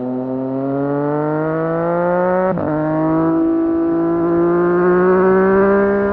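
2017 Triumph Street Triple 765 R's in-line three-cylinder engine pulling hard under acceleration, its pitch climbing steadily. About two and a half seconds in it upshifts with a brief break and a drop in pitch, then climbs again.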